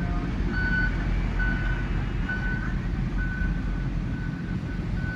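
Electronic warning beeper sounding a single high tone about once a second, over a steady low rumble of machinery.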